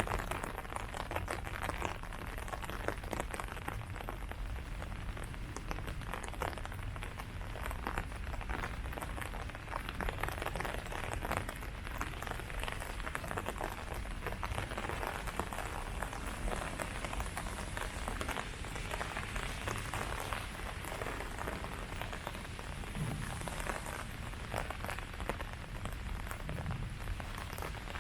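Steady rain falling on leaves: a dense, even patter of drops over a steady low rumble.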